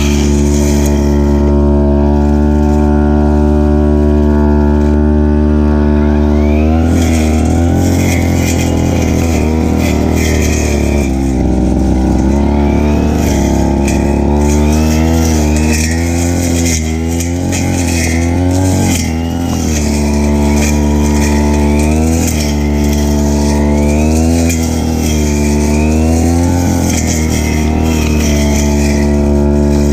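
Stihl FR3001 backpack brush cutter engine running at high speed while cutting grass. It runs steady at first, then from about seven seconds in its pitch keeps dipping and recovering as the line or blade takes the load of the grass.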